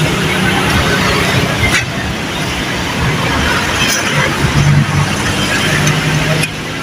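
Busy road traffic: vehicle engines and tyres passing close by, with a steady loud rumble and a low engine hum rising a little about two-thirds of the way through.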